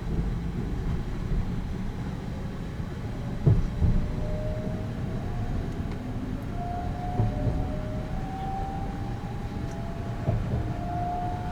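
285-series sleeper train running on the rails: a steady low rumble with a few knocks from the wheels over rail joints, and a faint motor whine that climbs slowly in pitch as the train gathers speed.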